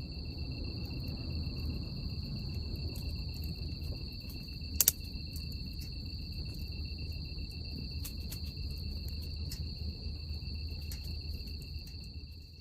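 Outdoor night ambience: insects, likely crickets, trilling steadily at two high pitches over a low rumble, with scattered small crackles and one louder snap about five seconds in.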